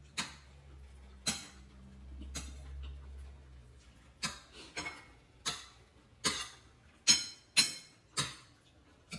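A utensil clinking against a dish about ten times at uneven intervals, each a sharp tap with a short, bright ring. The loudest clinks come about seven to eight seconds in.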